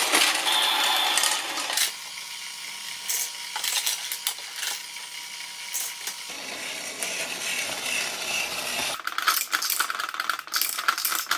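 Small hard plastic toy parts clicking and rattling as they are handled, in irregular clatters.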